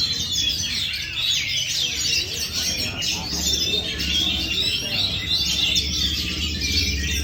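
Oriental magpie-robin (kacer) singing without a break, a rapid, varied run of chirps and whistles. A steady low hum sits underneath and grows louder about halfway through.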